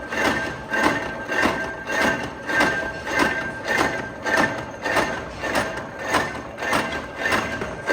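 Factory machinery in hex nut production knocking in a steady rhythm, a little under two strokes a second, over a steady ringing hum.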